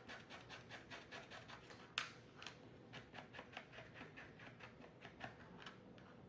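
Paint marker tip scratching across a painted train piece in quick short strokes, several a second, while lettering; one sharper click about two seconds in.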